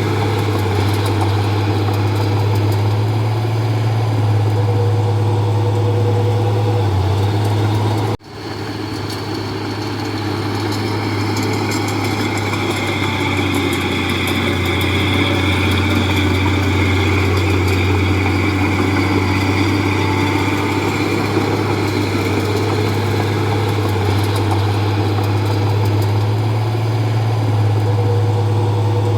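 Heavy diesel engine of a Komatsu D31P crawler bulldozer running steadily with a deep, even hum. It cuts out for an instant about eight seconds in, then carries on.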